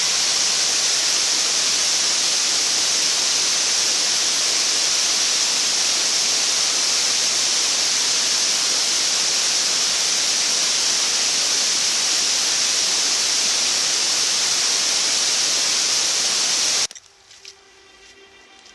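A waterfall rushing steadily, which cuts off suddenly about seventeen seconds in.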